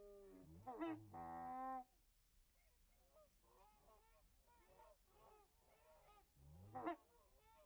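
Geese calling: a faint flock keeps up many short calls, with louder, drawn-out calls about a second in and again near the end.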